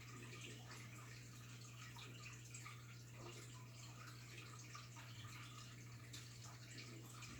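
Faint water sounds in a goldfish tank, with small drips and trickles over a steady low hum.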